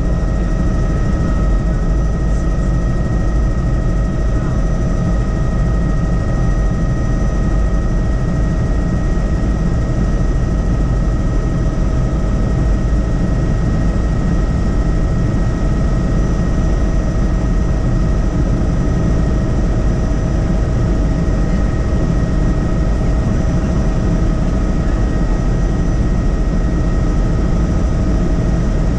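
Helicopter in steady flight: a constant low rotor and engine rumble with a steady high turbine whine on top, unchanging in pitch and level.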